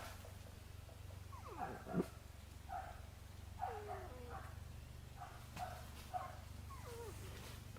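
Short animal calls repeated every half second to a second, a few of them sliding down in pitch.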